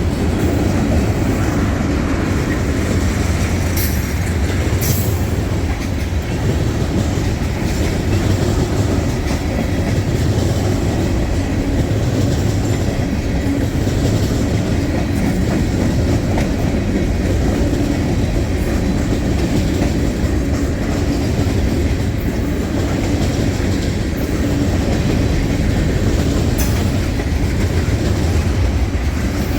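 Freight cars of a manifest train rolling past, a loud, steady rumble with wheels clicking over rail joints.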